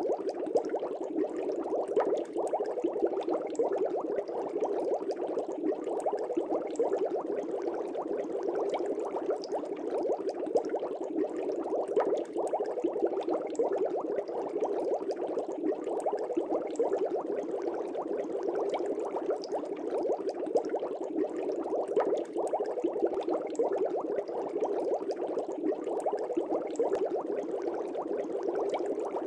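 Fish tank bubbling steadily: a dense, unbroken stream of bubbles with many small pops.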